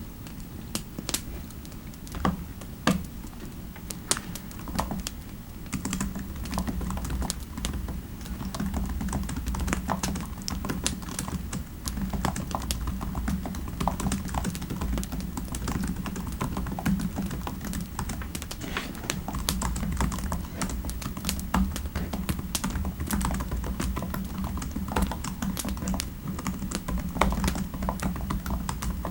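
Typing on a computer keyboard: a steady, irregular run of key clicks, over a low steady rumble.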